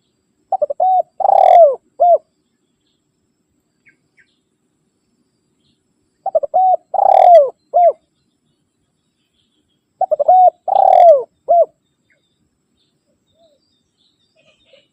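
Spotted dove (tekukur) cooing its call to a rival, three times about four seconds apart. Each call is a few short coos, a longer coo that falls in pitch, and one last short coo.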